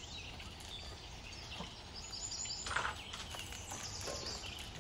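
Small birds chirping over steady outdoor ambience, with a short burst of noise about three seconds in.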